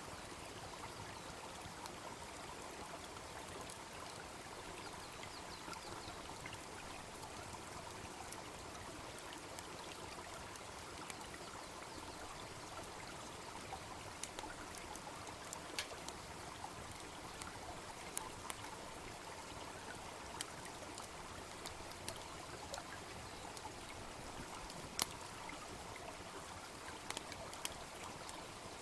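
A babbling brook running steadily, with scattered sharp pops and crackles of a wood bonfire on top, the loudest pop about 25 seconds in.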